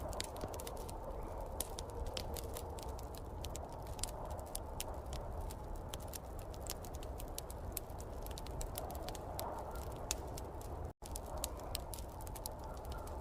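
Wood fire crackling with frequent sharp pops, over a steady rushing noise and low rumble of the fire and storm wind. The sound cuts out for a split second about eleven seconds in.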